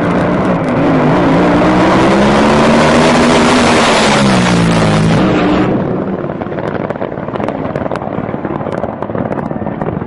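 Racing powerboat engine running hard at high revs, loud, with a rush of noise over it; its pitch rises and then falls. About six seconds in, the sound drops to a quieter, duller rushing noise with scattered clicks.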